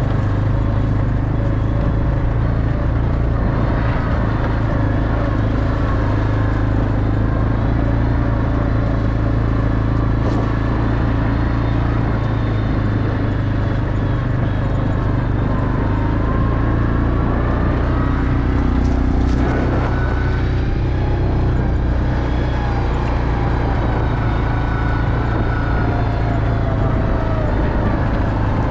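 A motor vehicle's engine running steadily up close, its pitch rising and falling slightly now and then.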